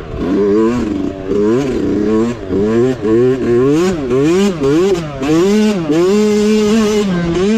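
Mini bike engine revving up and down over and over as the throttle is opened and closed on the trail, then holding a steady pitch briefly near the end.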